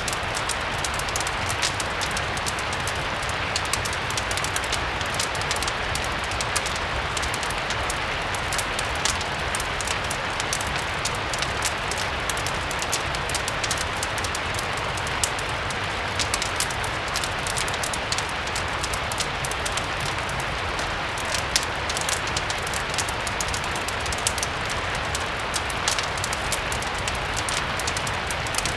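Steady rain blended with a crackling fireplace: an even hiss of rain with many small, sharp ticks and a low rumble underneath.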